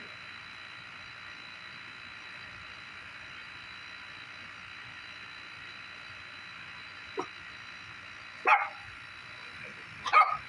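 A dog barking three short times, about 7, 8.5 and 10 seconds in, the last two loudest, over a steady high-pitched background drone.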